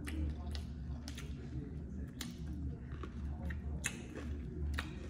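Close-miked chewing of barbecue chicken wing, with crisp crunches and wet mouth clicks coming irregularly every half second or so, over a low steady hum.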